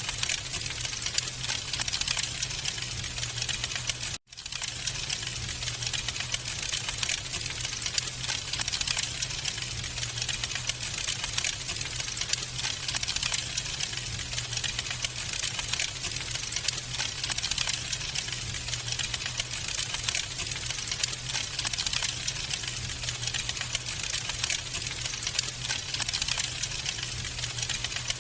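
Wood fire crackling in a fireplace: dense, irregular pops and snaps over a steady low rumble. It cuts out for an instant about four seconds in.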